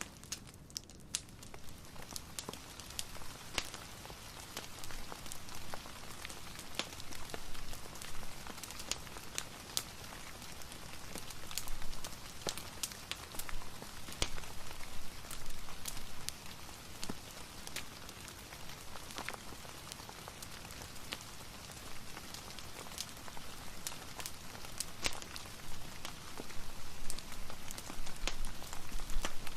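Steady rain mixed with a fireplace: an even hiss of rain with many sharp clicks and pops scattered throughout.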